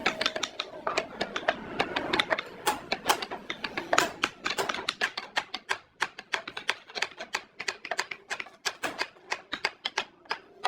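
Rapid, irregular tapping and clicking, several sharp knocks a second, typical of hand work on wood in a workshop.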